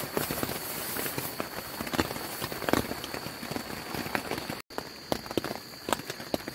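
Rain pattering on tent fabric: an even hiss with irregular sharp drop ticks, under a thin steady high tone. The sound cuts out for an instant about two-thirds of the way in, then carries on a little quieter.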